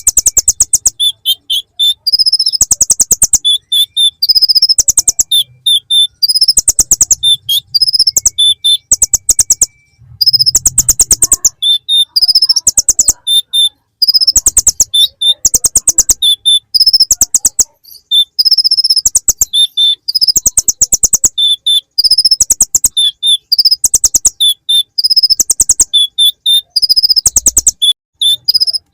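Kolibri ninja (konin) sunbird song packed with imitated bar-winged prinia (ciblek) phrases: very rapid, high buzzing trills alternating with short high notes, repeated over and over about every second or two.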